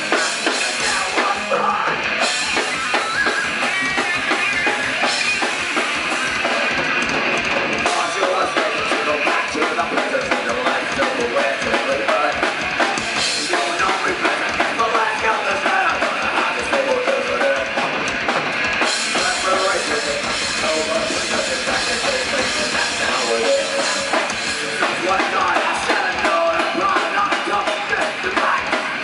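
Rock band playing live: drum kit with bass drum and distorted electric guitar.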